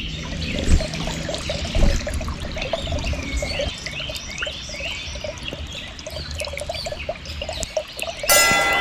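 Small birds chirping over a busy trickling, dripping water sound. Near the end a different sound with several steady tones cuts in abruptly.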